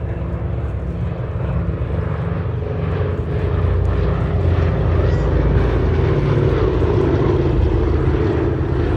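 Boeing B-17 Flying Fortress's four radial piston engines running with a steady propeller drone, growing louder about three seconds in.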